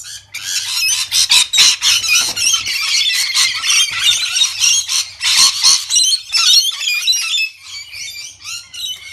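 A pet parrot screeching and squawking in a rapid, harsh run of high-pitched calls, loudest through the middle and thinning out near the end.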